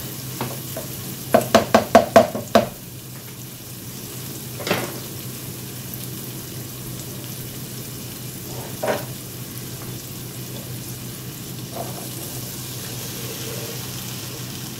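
Diced onion and red bell pepper sizzling gently in oil in a nonstick skillet, with a quick run of clicks and scrapes from a plastic slotted spoon stirring against the pan about a second and a half in. A couple of single knocks come later over the steady sizzle and a low hum.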